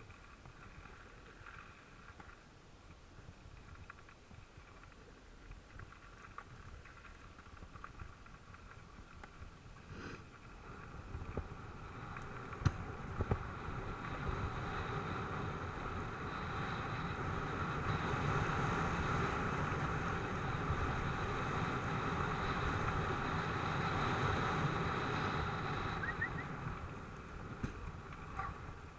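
Mountain bike riding over a dirt track, with tyre and wind noise that builds as the bike gathers speed, holds for several seconds and eases off near the end. A few sharp knocks come a little less than halfway through, where the bike hits bumps.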